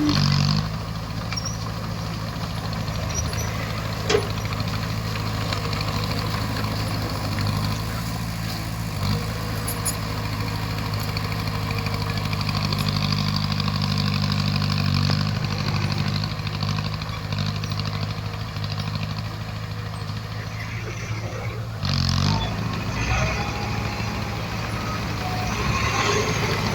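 Heavy earthmoving machine's diesel engine running steadily under work, with a couple of brief sharp knocks, about four seconds in and again near the end.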